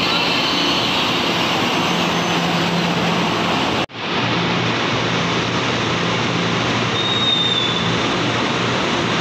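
Taiwan Railway train running at a station platform, a loud, steady rush of wheels and motors with a brief high squeal a little past halfway. The sound drops out for an instant about four seconds in, then resumes.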